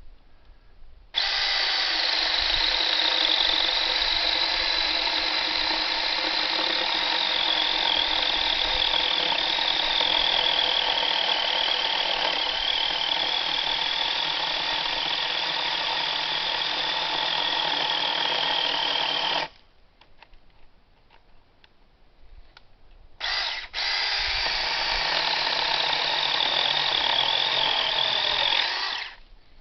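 A 6-inch mini chainsaw sawing wood in a long run of about eighteen seconds, its high whine wavering slightly under the cut. It stops, gives a short blip, then saws again for about five seconds.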